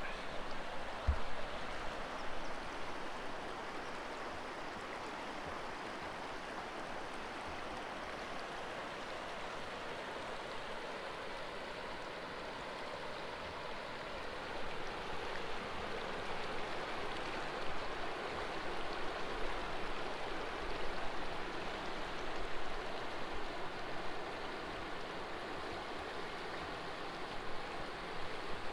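Kern River water flowing steadily, an even rushing hiss that swells a little in the second half.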